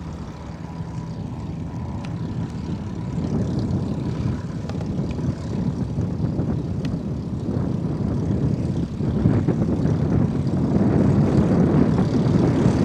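Light propeller airplane's engine running and growing steadily louder.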